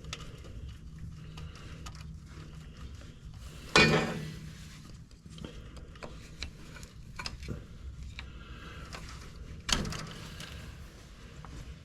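Hand tools and parts knocking during repair work on a tractor engine: scattered small clicks and taps, with two loud clanks about four seconds and ten seconds in, each ringing off briefly.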